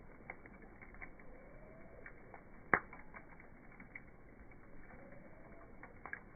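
Wood fire crackling: scattered small clicks and snaps, with one sharp, louder pop a little under three seconds in.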